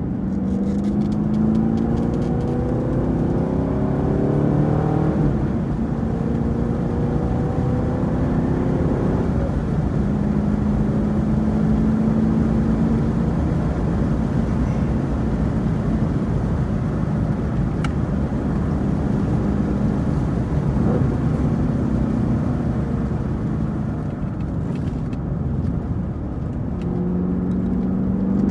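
A 2018 Camaro SS 1LE's V8 engine under way, with its pitch climbing as it accelerates in the first few seconds, then holding steady revs, over steady road and tyre noise.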